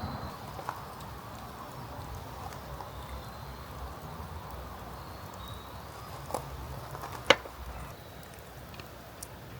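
A low steady rumble with a few light knocks, and one sharp clack about seven seconds in.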